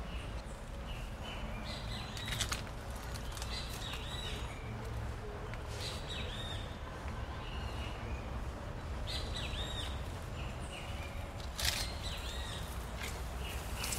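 Small birds chirping in short, repeated arched calls over a steady low background hum, with two light knocks, one a couple of seconds in and one near the end.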